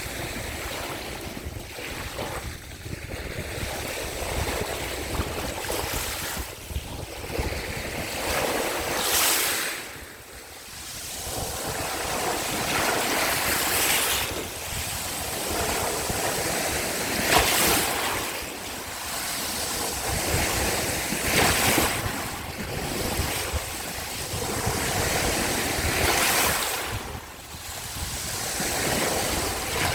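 Small waves of the Sea of Azov lapping and breaking on the shore, each wash swelling and fading every few seconds, with wind noise on the microphone.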